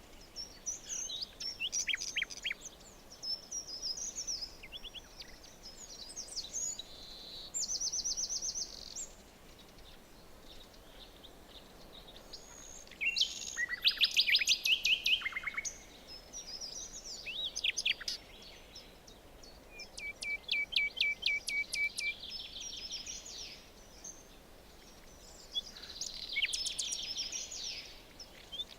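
Several songbirds singing in a forest, overlapping phrases of chirps and fast trills, the loudest a rapid trill about halfway through and another run of quick repeated notes a little later, over a faint steady hiss.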